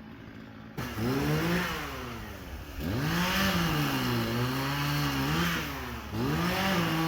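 Two-stroke chainsaw idling, then opened up three times: each time the engine note climbs, then sags and holds lower, as when the chain is loaded in a cut.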